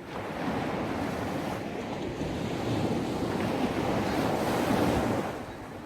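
Gentle sea waves washing onto a beach, the wash swelling to its loudest about five seconds in and then easing off. Wind is heard on the microphone.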